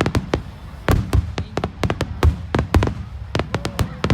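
Fireworks going off: a rapid, irregular string of sharp bangs and pops, several a second, with deeper booms among them.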